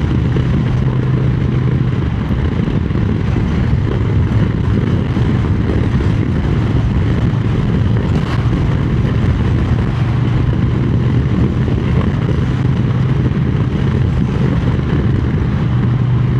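Triumph Speed Twin 900's parallel-twin engine running at a steady cruise under a heavy rush of wind noise.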